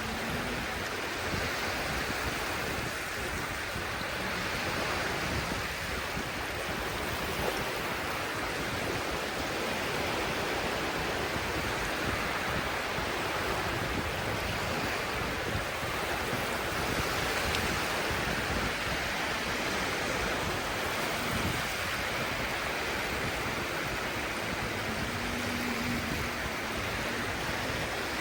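Sea surf washing onto a shore: a steady, unbroken hiss of breaking waves.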